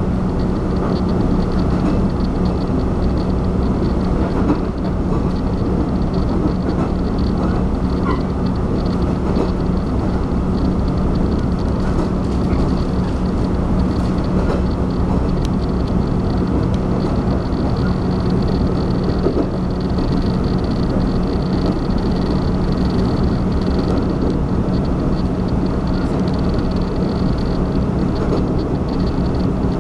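Taiwan Railway train running steadily, heard from inside the carriage: a continuous rumble of wheels on rails with a constant low hum.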